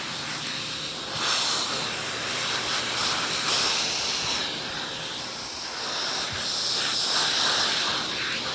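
Aerus Lux Guardian upright vacuum running with its hose in use, air hissing through the hose and the attached dusting brush. The hiss swells and eases a few times as the suction at the tool changes.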